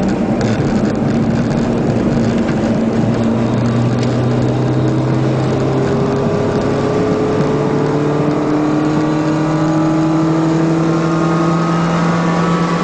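Race car engine heard from inside the cabin, pulling hard on track: the pitch drops at an upshift a few seconds in, then climbs steadily as the car accelerates, over constant road and wind noise.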